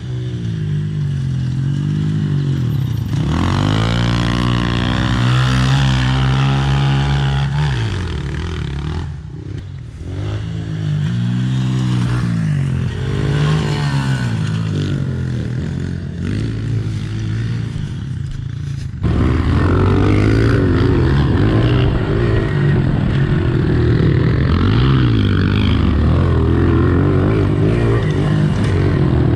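Small four-stroke pit bike engines revving up and down while being ridden. About two-thirds of the way in the sound jumps abruptly to a louder, busier engine note.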